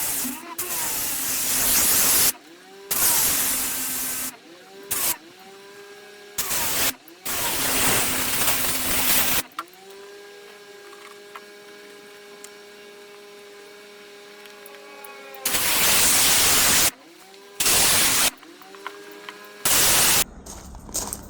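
Pressure washer spraying in repeated bursts, from a fraction of a second to a couple of seconds each, with the trigger pulled about eight times and a long pause in the middle. The machine's motor hum drops in pitch as each burst starts and rises again once the spray stops.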